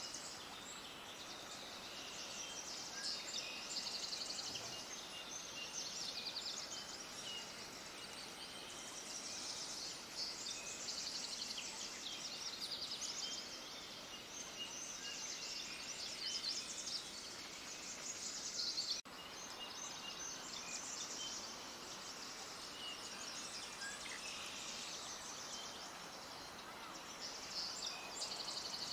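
Many small birds chirping and trilling together in a dense, continuous, high-pitched chorus, with a momentary dropout about two-thirds of the way through.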